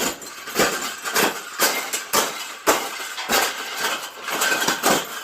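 A cage being bent and folded by hand: rubbing and scraping broken by sharp knocks, about two a second.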